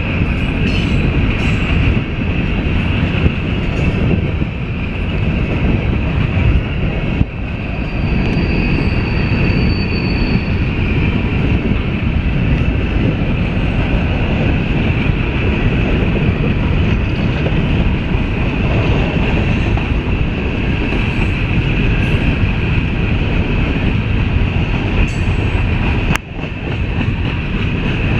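CSX coal train's cars rolling past, a steady loud rumble and clatter of steel wheels on rail, with a brief high wheel squeal about eight seconds in.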